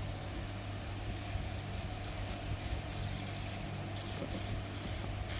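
Steady low hum under a background hiss, with short faint hissy scratches coming and going irregularly from about a second in.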